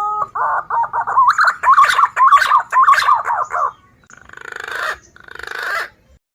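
Green pigeon (punai) calls from a bird-trapping lure recording. A warbling run of whistled notes hovers around one pitch, with short clicks between them, for about three and a half seconds. Then come two short rasping calls, each swelling in loudness over about half a second.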